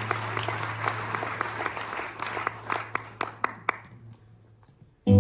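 Audience applause after a song, thinning to a few scattered claps and dying away about four seconds in, over a steady low amplifier hum. Near the end a loud electric guitar chord rings out.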